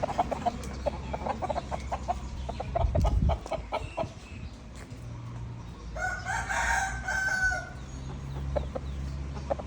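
Rooster crowing once, a single call of nearly two seconds starting about six seconds in, preceded by a run of short rapid clucking notes. A low thump sounds about three seconds in.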